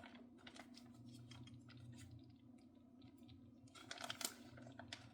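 Faint crinkling and small clicks of shredded cheese being scooped and packed into a measuring cup, with a louder cluster of crackles about four seconds in.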